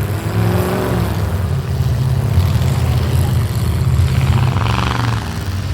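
Demolition derby engines running hard, with a steady low drone and engine pitch rising and falling as drivers rev.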